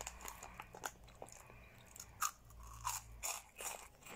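Cheetos Colmillos corn snacks being chewed close to the microphone: irregular crisp crunches, with a few sharper ones in the second half.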